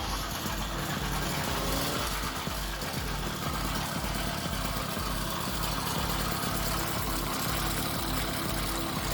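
Motorized bicycle engine running steadily at idle.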